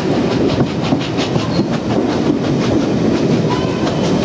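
Heritage train running along the track: a steady rumble with repeated clacks of wheels over the rail joints, and a few faint squeals of wheels on the rail.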